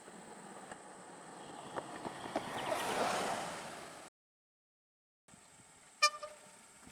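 A passing vehicle swells to a peak about three seconds in, then the sound cuts off abruptly. About a second later comes one short, loud toot of a vehicle horn.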